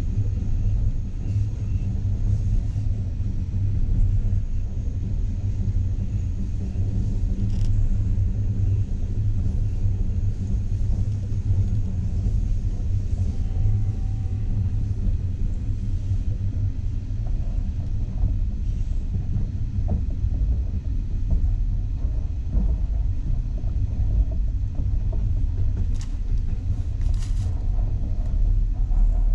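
Passenger train carriage in motion, heard from inside: a steady low rumble of wheels running on the rails. Two brief sharp sounds come near the end.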